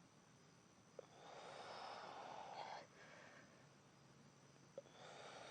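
Faint breathing of a woman exerting herself: a long, drawn-out exhale through the nose about a second in, then softer breaths, with two small clicks.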